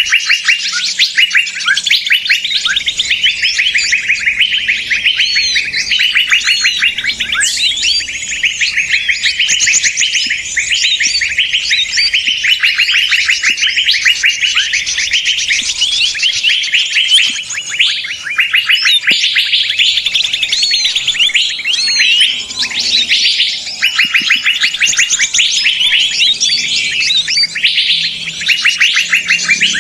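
Many small songbirds calling at once in a busy, agitated chatter of rapid, high chirps and trills that overlap without pause. This is a 'ribut' bird-luring call, played to draw small birds in.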